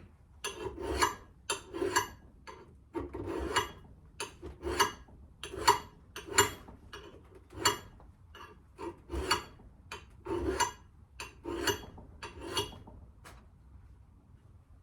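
Hand-sharpening of an old steel axe-head edge: about twenty short scraping strokes of an abrasive across the blade, roughly one and a half a second.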